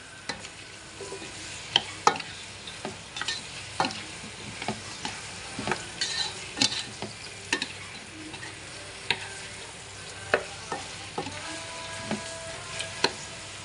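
Chicken pieces sizzling and frying in a nonstick pan while being stirred, with many sharp clicks and scrapes of the utensil against the pan.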